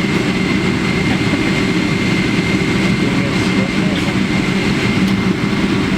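Boeing 777-300ER cabin noise: its GE90 jet engines running steadily, with a constant high fan whine over a dense, even rumble.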